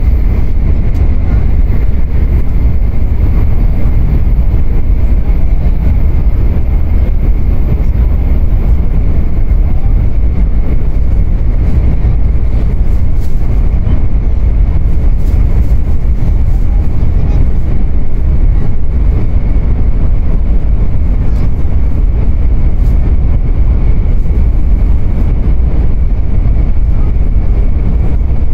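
Steady cabin noise of a Sanyo Shinkansen train running: a loud, even low rumble with a faint, steady high whine above it.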